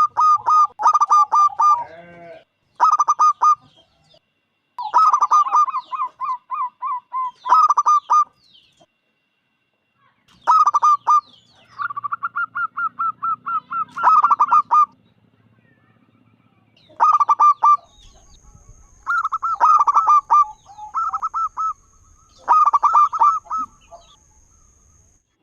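Zebra dove (local perkutut) singing: repeated phrases of quick, pulsing cooing notes, each phrase a second or two long, with pauses of a few seconds between them.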